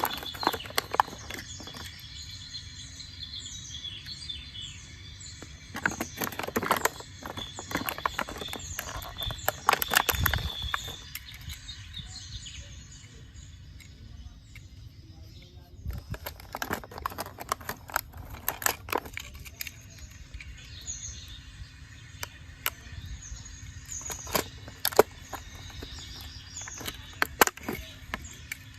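Bursts of clicking and rattling knocks, several clusters spread over the stretch, with small birds chirping in the background.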